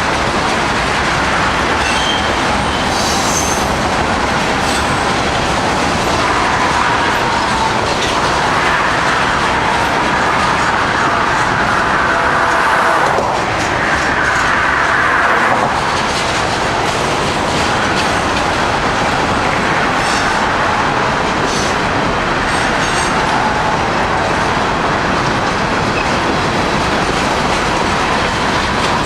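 Freight cars of a long train rolling past close by, their wheels clacking steadily over rail joints, with a faint wheel squeal now and then.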